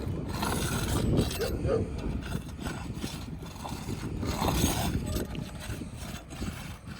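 Scraping, rubbing and irregular knocks of a tool being worked under a roof shingle to pry it loose from the roof.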